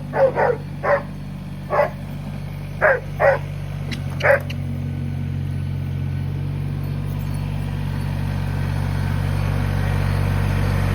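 A dog barks about seven times in the first four and a half seconds over a steady low tractor engine drone, which grows gradually louder.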